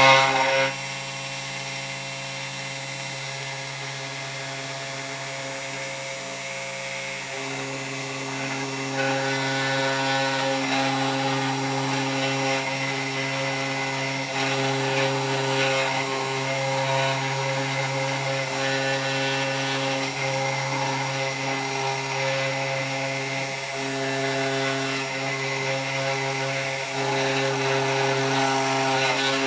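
Desktop CNC 3018 Pro router carving wood: a steady motor hum with a rasping cutting noise over it. The sound drops sharply just under a second in and grows louder again around seven seconds as the bit works on.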